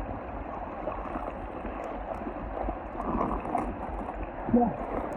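Steady wash of moving water and wind by the waterside, with a brief faint call about four and a half seconds in.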